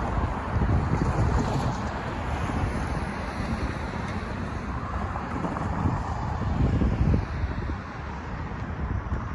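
A freight train rolling past at close range: a steady, low rumble from the wheels and cars, with wind buffeting the microphone.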